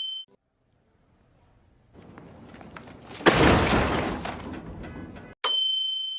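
A sound-effect crash: a quiet build-up, then a sudden loud crash about three seconds in that trails off in crackle over about two seconds. A short bell ding follows near the end.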